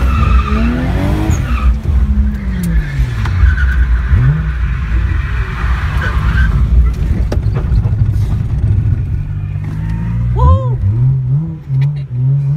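Toyota 1JZ straight-six in a BMW E36 touring, through a 3-inch straight pipe, heard from inside the car while drifting: the engine note rises and falls with the throttle while the tyres screech. About ten and a half seconds in it revs up sharply, then holds high and wavers quickly near the end.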